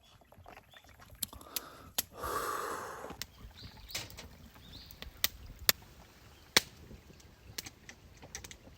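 Scattered sharp clicks and knocks, with a rustling burst lasting about a second, some two seconds in.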